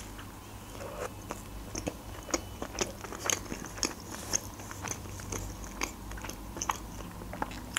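Close-miked chewing of a mouthful of McDonald's burger after a bite, with many small, sharp, irregular mouth clicks.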